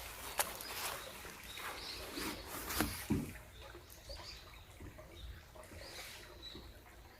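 Outdoor forest ambience: a few brief high bird chirps, with scattered sharp clicks and rustles over a soft background hiss.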